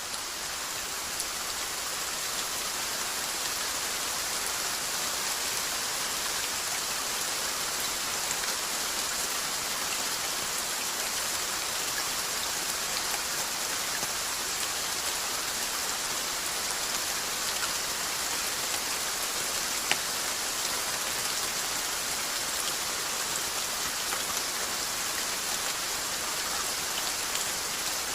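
Steady rainfall: a dense, even patter of raindrops on a surface, fading in over the first few seconds, with one sharper drop hit about twenty seconds in.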